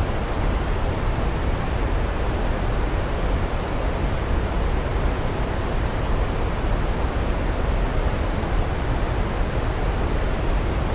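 Waterfall: a steady, unbroken rush of falling water, an even noise heaviest in the low end.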